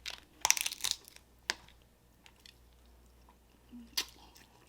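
Dungeness crab shell being cracked and broken apart by hand: a burst of crackling snaps about half a second in, then single sharp snaps at about a second and a half and near the end.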